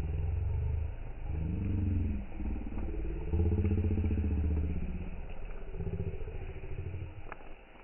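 Motorcycle engine running and revving, its pitch rising and falling several times, then easing off after about five seconds.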